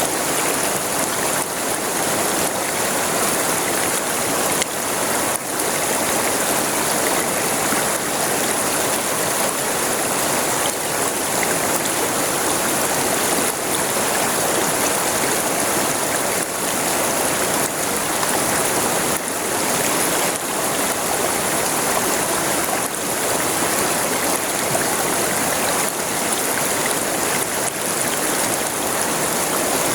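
River water flowing and splashing over rocks, a steady rushing that keeps on without a break.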